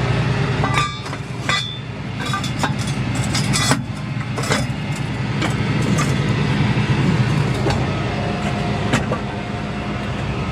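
A vehicle engine running steadily, with a run of sharp metallic clanks and clicks over the first few seconds and one more about nine seconds in.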